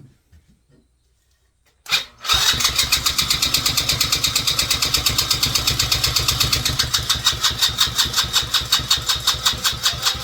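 Small engine being cranked by its electric starter, starting with a click about two seconds in, then a steady rhythmic churning of about six strokes a second without the engine catching: it will not start.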